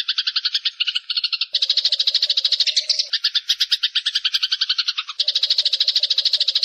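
Eurasian tree sparrows chirping in a loud, rapid, continuous chatter of short calls, about six or seven a second. The texture changes abruptly about a second and a half in and again near five seconds, as the overlapping birds shift.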